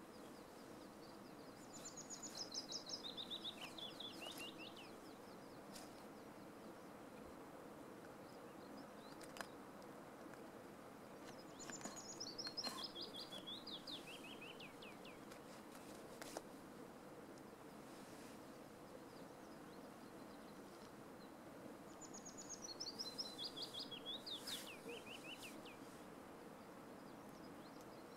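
A songbird singing three times, about ten seconds apart: each song is a quick run of high notes that falls steadily in pitch over two or three seconds. Behind it is a steady faint outdoor hiss.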